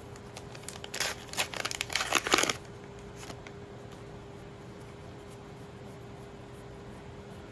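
Foil booster pack wrapper torn open and crinkled in a crackling burst lasting about a second and a half, starting about a second in, followed by a couple of faint clicks.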